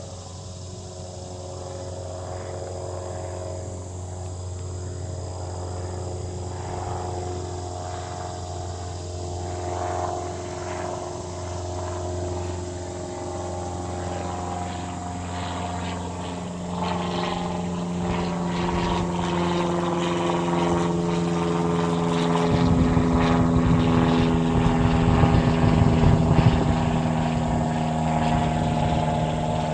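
Airplane engines drawing closer: a steady engine drone with several held tones that grows louder over the whole stretch, a deep rumble joining about two-thirds of the way in, and is loudest shortly before the end as the plane passes.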